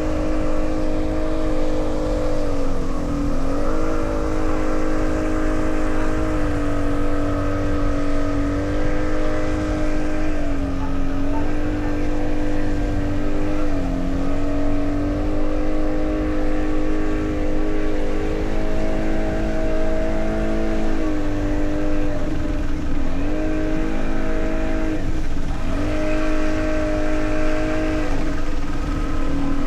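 An engine running steadily: a loud droning tone whose pitch dips briefly every few seconds and then recovers.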